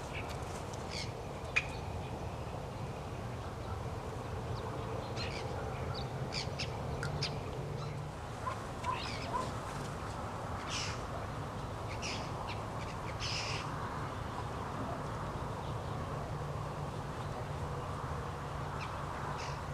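Scattered short bird calls over a steady low background hum, with a few louder calls past the middle.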